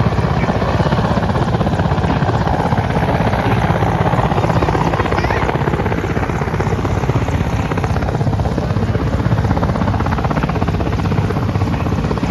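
Helicopter rotor blades chopping in a rapid, steady beat, with the turbine noise running continuously.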